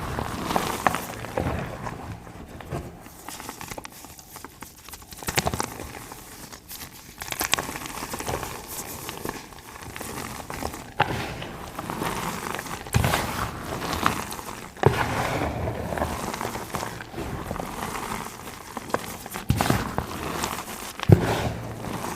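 Reformed gym chalk being crushed and crumbled: irregular dry crunches and crumbling, with a few sharper cracks, the loudest near the end.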